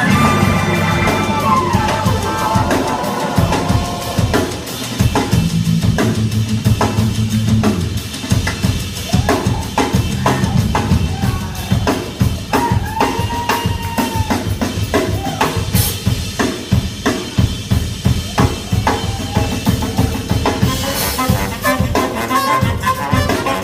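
Live band music carried by the drum kit: rapid snare, rimshot and bass drum hits. The other instruments drop back after the first couple of seconds and come back in near the end.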